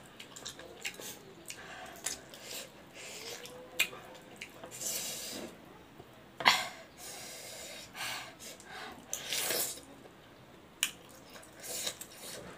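Close-up wet chewing and lip-smacking of fatty pork leg (trotter) skin, with many sharp mouth clicks and a few longer, hissing breaths through the nose.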